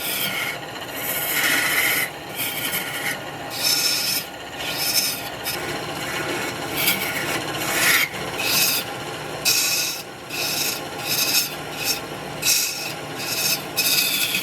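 Repeated rasping strokes of a tool or abrasive against spinning wood on a wood lathe, coming irregularly at first and then about one and a half a second. A faint steady hum from the running lathe lies underneath.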